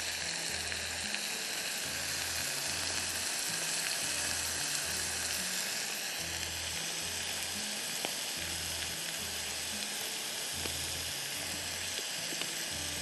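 Vegetables sizzling steadily in oil in a small saucepan on a gas burner while being stirred, as sauce ingredients cook.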